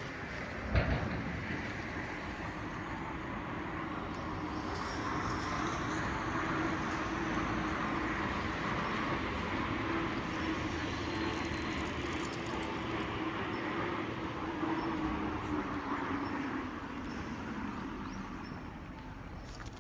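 A motor vehicle passing: its engine hum and road noise swell over several seconds, hold, and fade near the end. A single sharp knock sounds about a second in.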